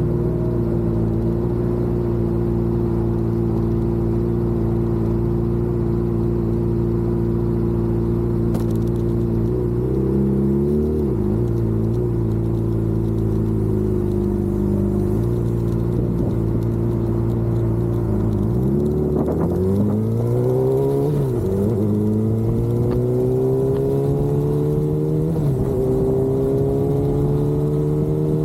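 Vehicle engine running at road speed. Its pitch wavers about ten seconds in, then dips about nineteen seconds in and climbs steadily as the vehicle accelerates.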